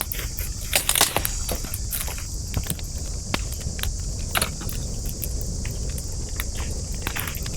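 Wood campfire crackling, with irregular sharp pops, the loudest cluster about a second in and another a little after four seconds in, over a steady high hiss and a low rumble.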